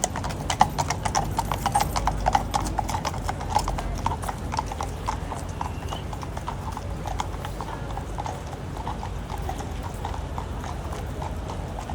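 Horses' hooves clip-clopping on a hard road surface, a quick run of sharp strikes that grows fewer and fainter as the horses move off.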